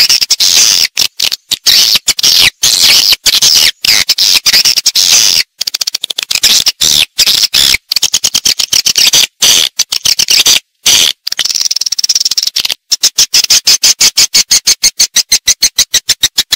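Swiftlet lure-call recording: loud, high-pitched twittering chirps from swiftlets, packed densely and broken by short gaps. Near the end it turns into a fast, even run of chirps at about six a second.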